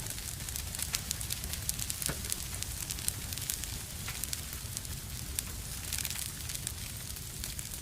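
Fireplace fire crackling: many small, sharp, irregular pops and snaps over a low, steady rumble of flames.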